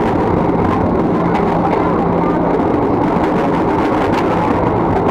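Steady rushing rumble of a commuter electric train running on the line, with another commuter train passing close alongside on the next track. There is a steady low hum and light clicking of wheels, and the passing train's rush dies away just after it clears.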